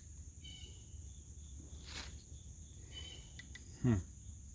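Crickets or other insects chirring steadily in a high, even pitch, with a few faint scattered clicks. Shortly before the end, a brief, louder low sound slides down in pitch.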